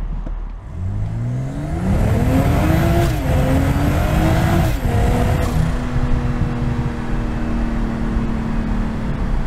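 BMW M240i's 3.0-litre turbocharged straight-six accelerating hard: the engine note climbs from about a second in, dips briefly at an upshift of the 8-speed automatic about three seconds in and climbs again, then drops at another shift near five seconds and settles into a steady cruise.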